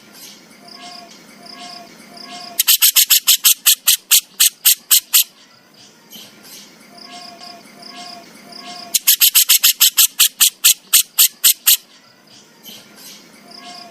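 Burung jenggot bird giving its harsh rattling 'besetan' call: two runs of rapid sharp clicking notes, about six a second, each lasting a couple of seconds with a pause between. Quieter short repeated notes fill the gaps.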